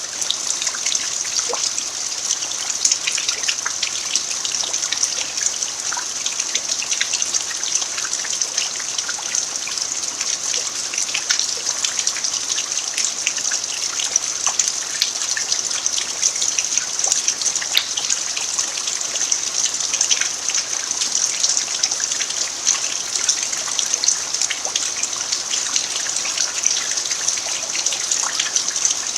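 Steady rain falling on a dirt yard: an even hiss dotted with many small drop ticks.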